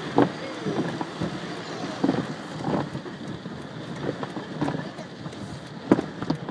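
Car wash cloth strips slapping and rubbing against a car's body, irregular sharp knocks over a steady hiss.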